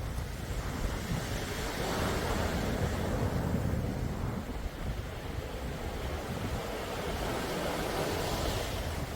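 Calm sea waves washing in, swelling about two seconds in and again near the end, with wind rumbling on the microphone.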